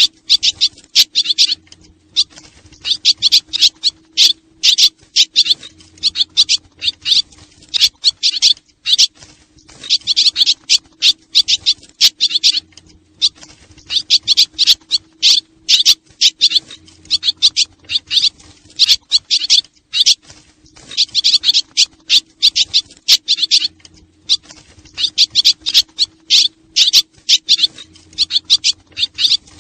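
Swallows twittering in dense clusters of rapid, high chirps, each cluster lasting a second or two with brief pauses between, over a faint steady low hum.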